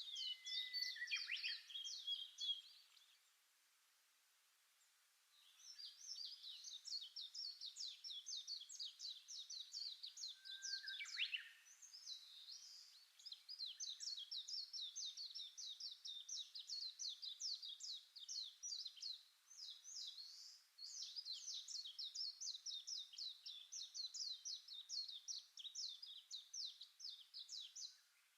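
Songbirds chirping in rapid, high, continuous runs of several notes a second, pausing briefly a few seconds in and then carrying on.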